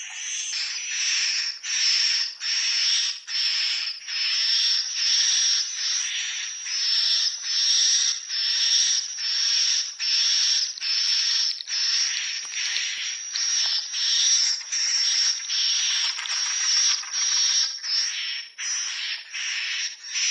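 Swiftlet calls: an unbroken run of buzzy, hissing chirps, about one and a half a second, each carrying a thin high whistle on top.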